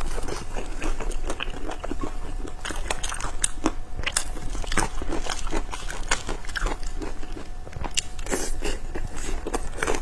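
Close-miked chewing and biting of pan-fried pork buns (shengjian bao): a steady run of wet mouth sounds broken by many short, sharp crisp clicks.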